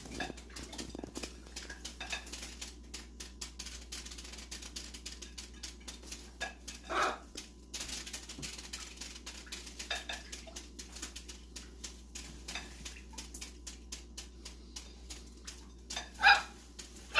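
Pet bird bathing, splashing and flicking water in quick rapid patters, with a few short, sharp calls. One call comes about seven seconds in, and a louder one near the end.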